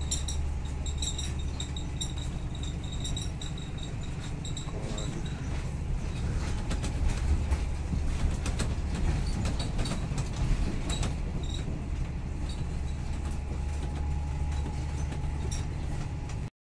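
Old-type Thai State Railway sleeper carriage running at speed, heard from inside: a steady low rumble with rattles and knocks from the car, the clatter busiest a few seconds past the middle. The sound cuts off suddenly just before the end.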